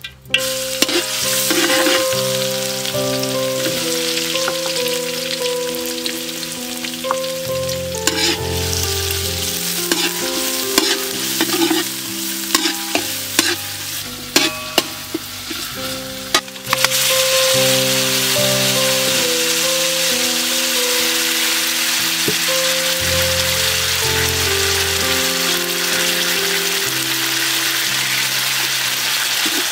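Chopped garlic and red chillies sizzling and frying in hot oil in a wok while being stirred, with scattered clicks and scrapes in the first half; the sizzle gets louder and steadier a little past halfway. A gentle instrumental melody plays underneath.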